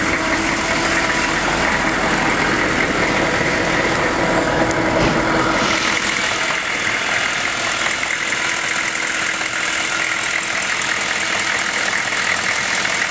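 The turbo-diesel V8 of a 2001 Chevrolet 3500 HD truck, a 6.6 L Duramax, idling steadily with the hood open. Its deepest rumble drops away about halfway through.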